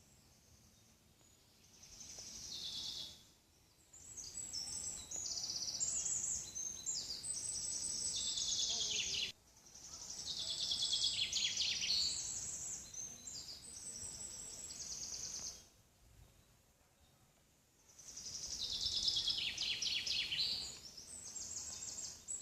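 Birds singing in bouts of several seconds: rapid high trills and phrases that sweep downward, with short quiet gaps between bouts.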